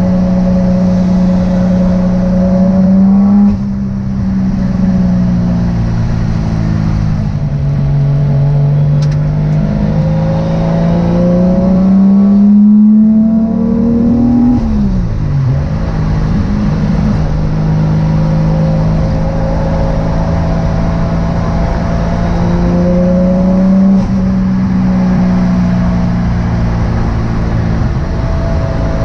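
Turbocharged Toyota 1JZ-VVTi inline-six engine in a Nissan 240SX S13 driving under load. Its revs climb and fall several times as it accelerates and shifts, with a steep drop in revs about halfway through.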